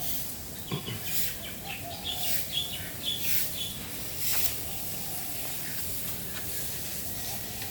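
Small birds chirping: a run of short, high chirps in the first three or four seconds, then sparser, over a background hiss.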